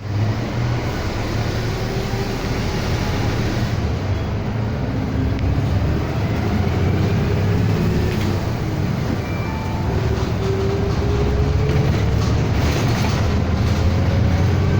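City bus running, heard from inside the cabin: a steady low rumble with a faint whine that rises in pitch in the second half as the bus gathers speed.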